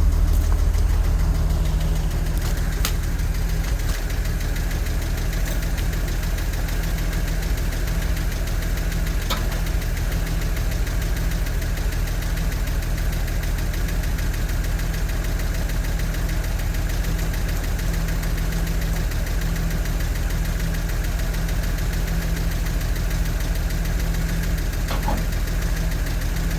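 1963 Jeep Gladiator engine idling steadily, with a tick running through it that the owner has not yet traced.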